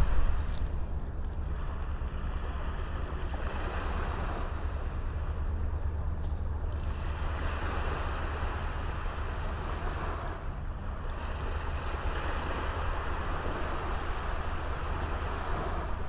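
Small sea waves washing onto a beach, the surf rising and falling in slow swells every few seconds, over a steady low rumble of wind on the microphone.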